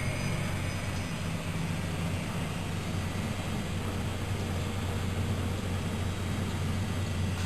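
Miele Novotronic W120 washing machine running with a steady low hum and even whooshing noise.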